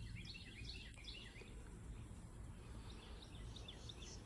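Faint birdsong: a quick run of short chirps at the start and another about three seconds in, over a low steady background rumble.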